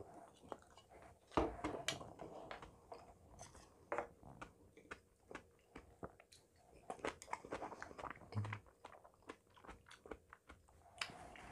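Close-miked chewing and mouth sounds of a person eating a mouthful of Spam curry rice: soft smacks and clicks, with a louder mouthful from the spoon about a second and a half in.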